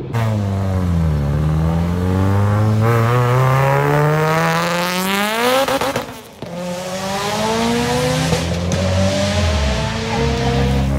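Performance car engine pulling hard under acceleration, its pitch climbing steeply through a gear. About six seconds in there is a brief drop at a gear change, then it climbs again.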